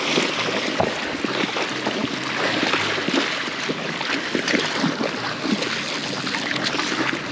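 River current rushing and lapping steadily, with small scattered splashes.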